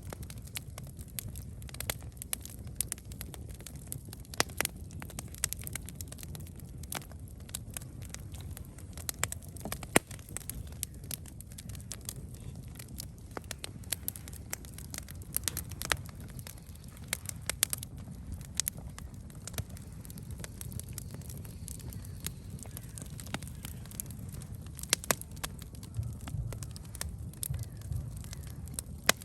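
Wood campfire burning with frequent irregular crackles and pops over a low steady rumble of the flames.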